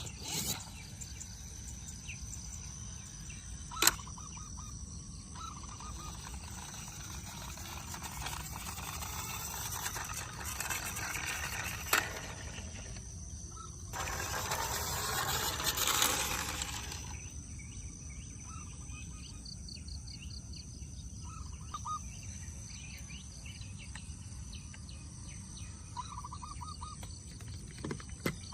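Outdoor ambience: a steady insect drone with occasional short bird chirps. There are a few sharp clicks, and a louder rushing noise swells and fades over about three seconds midway.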